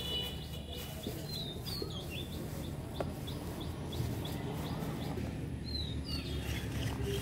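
A small bird chirping in a quick run of short repeated notes, about three a second, with a few more calls near the end, over a steady low background rumble. Soft crinkles of a plastic bag come through as bait is scooped out by hand.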